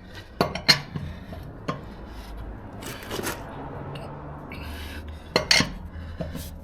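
Metal clinks and knocks of a wrench and socket on a car's wheel nuts as they are tightened by hand, a few sharp clinks scattered irregularly, two of them close together about five and a half seconds in.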